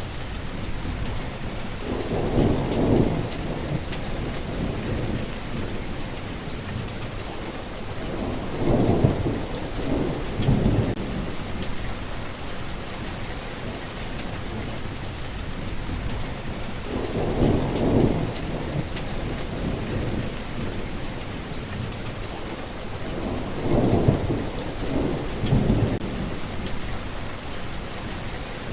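Steady rain falling, with thunder rumbling four times, each roll swelling low and fading over a second or two.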